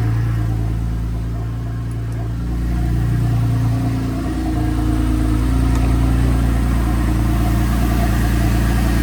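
Porsche 996 Turbo's twin-turbocharged 3.6-litre flat-six idling steadily, still warming up after a cold start.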